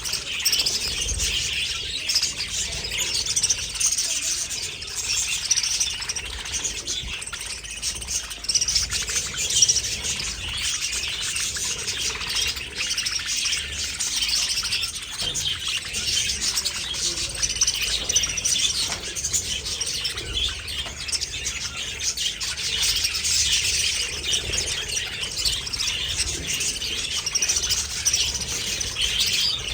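A flock of budgerigars chattering and chirping without pause, many birds calling over one another in a dense, high-pitched warble.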